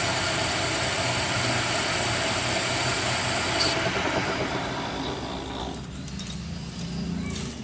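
A workshop machine running steadily with a dense mechanical noise, which dies away about five to six seconds in, leaving a lower hum.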